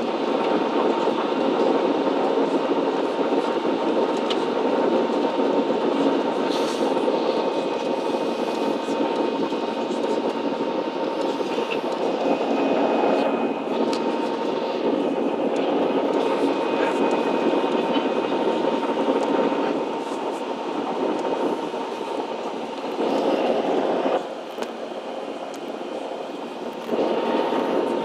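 Jet engine and airflow noise inside the cabin of a Ryanair Boeing 737 during takeoff, a steady dense rush with a thin steady whine in it. The level drops for a few seconds near the end, then comes back up.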